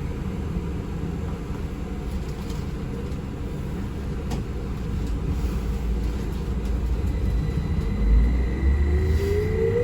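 Ride noise of a city public-transport vehicle from inside: a steady low rumble. Near the end a rising whine sets in as it picks up speed.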